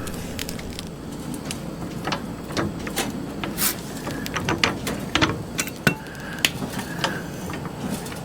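Irregular metal clicks and clanks from a floor jack being set under a car's frame and worked.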